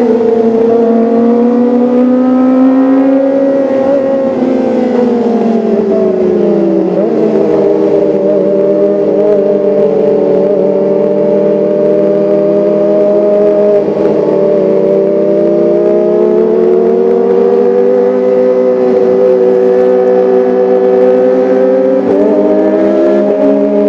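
Kawasaki ZX-25R's 249 cc inline-four engine and exhaust running at high revs with a steady, high engine note. The pitch falls a few seconds in, holds steady, and rises slightly near the end as the revs change.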